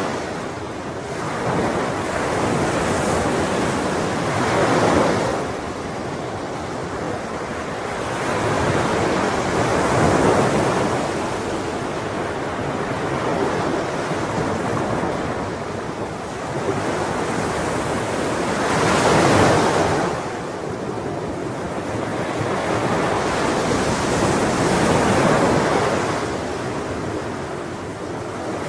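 Ocean waves breaking and washing on a shore, a continuous surf wash that swells with each wave, about every five seconds.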